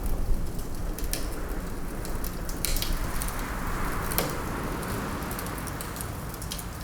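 Log fire crackling, with scattered sharp pops over a steady low rumble, mixed with winter wind that swells in a gust around the middle.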